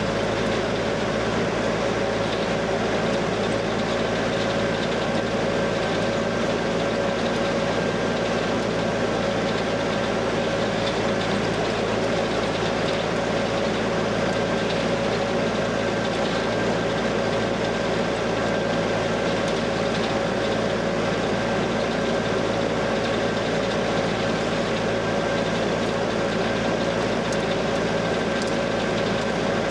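Heavy farm machinery working at silage harvest: a big diesel engine running steadily under load, with a constant whine over the engine noise.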